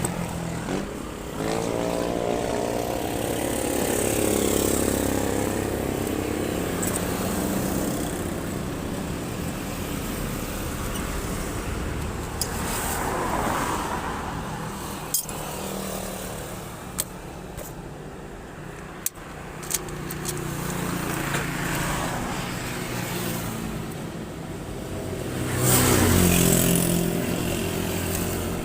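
Motorcycle engine running on the road, with road and wind noise. A few seconds in the engine pitch climbs as it speeds up, and there is a louder swell near the end.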